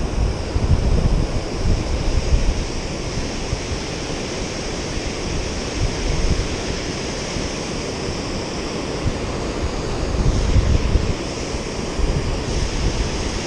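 Steady rush of water pouring through a river spillway, with gusts of wind buffeting the microphone now and then.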